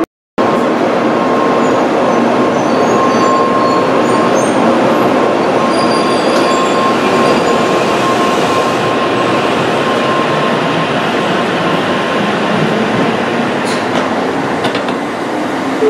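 A train running on rails: a steady, loud rumble and rail noise with a thin, steady whine.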